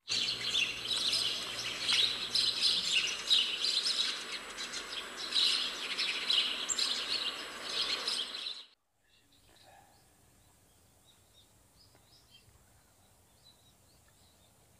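Birds chirping densely and loudly for about eight and a half seconds, then cut off abruptly, leaving a faint outdoor background with occasional distant chirps.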